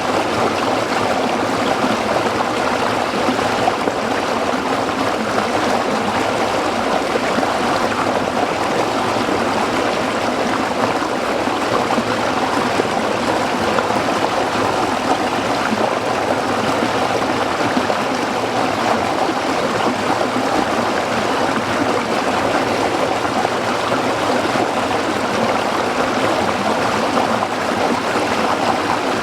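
A small stream flowing and splashing over rocks, a steady, unbroken rush of water.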